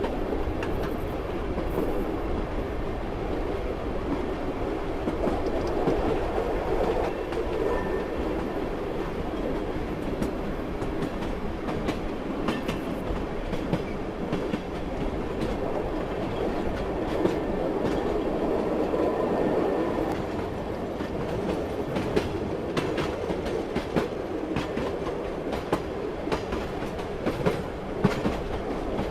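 Train running on rails: a steady rumble with irregular clicks and knocks of the wheels passing over rail joints.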